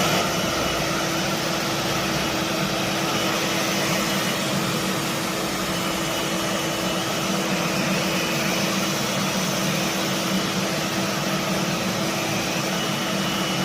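A motor running steadily: an even whirring hum with one constant pitch that does not change.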